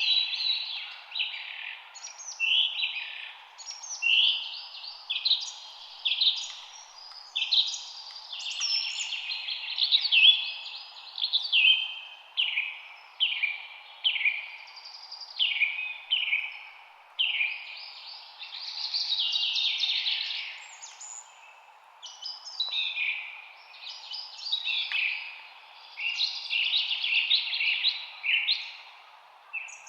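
Birdsong: songbirds singing short, quick phrases one after another almost without pause, over a steady faint background hiss.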